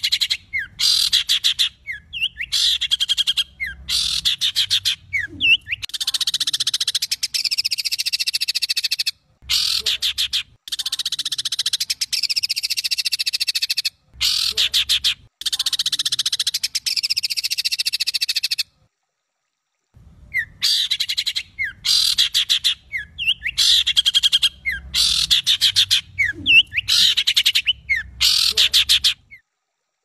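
Harsh, rattling bird calls of the rough 'kasaran' type, in short bursts and stretches a few seconds long of fast buzzy churring. There is a brief pause a little past the middle, and the calls stop just before the end.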